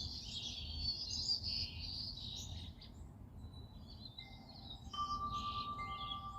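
Songbirds chirping and chattering, a dense chorus that thins out about halfway through into scattered short calls. About five seconds in, a clear steady ringing tone starts and holds, over a low outdoor rumble.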